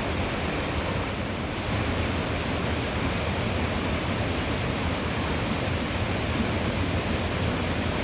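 Rushing water of a mountain stream or cascade, a steady, even rush with no breaks.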